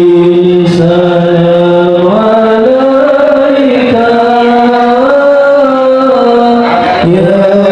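Male qari reciting the Qur'an in a slow, melodic chant, holding long ornamented notes. The pitch steps up a couple of times and falls back near the end.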